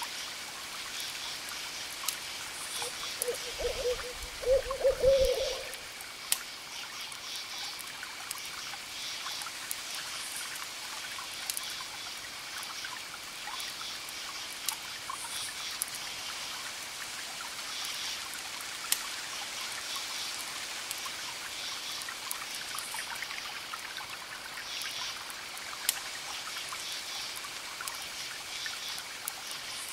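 Fire crackling with scattered sharp pops over a steady trickling-water hiss, with short bursts of high chirping throughout. An owl hoots a few times about three to five seconds in, the loudest sound.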